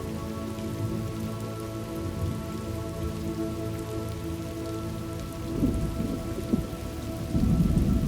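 Steady rain falling, with thunder rumbling twice near the end; the second roll is the louder. A low drone of held steady tones runs underneath.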